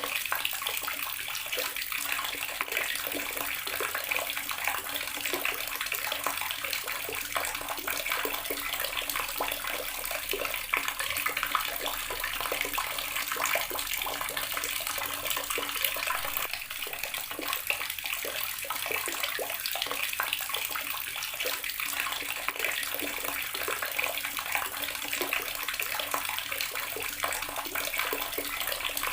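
Water running steadily from an outdoor tap, splashing and spattering continuously below it.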